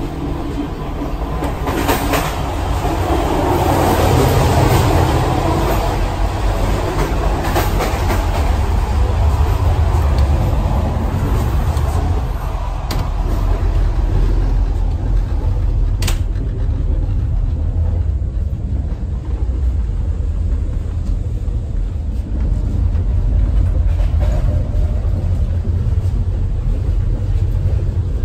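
Running noise inside a moving CFR sleeping coach: a steady low rumble from the wheels on the track, with a rushing sound in the first few seconds and a few sharp clicks.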